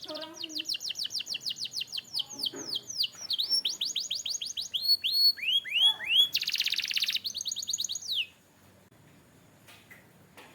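Canary singing: fast runs of repeated, downward-sweeping whistled notes that switch to a new pattern every second or so, with a dense buzzy trill a little after six seconds in. The song stops at about eight seconds, leaving only a few faint clicks.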